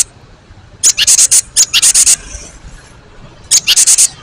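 Cinereous tit (gelatik batu) giving loud, harsh rattling calls: three quick series of high scratchy notes, about a second in, around two seconds, and just before the end.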